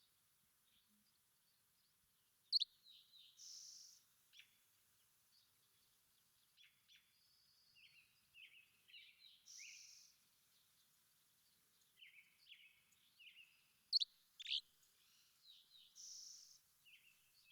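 Small songbirds singing in short twittering phrases, with two sharp high notes standing out and a short buzzy note repeated three times.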